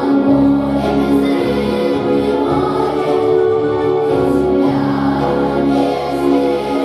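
Children's choir singing a slow song in long, held notes.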